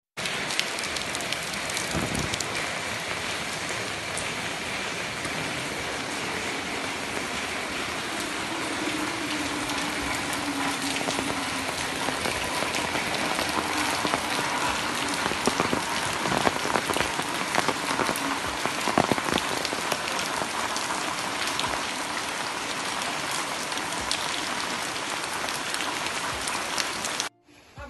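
Heavy rain falling steadily on paving stones and standing water, with sharper drops and splashes standing out in the middle stretch. It cuts off abruptly just before the end.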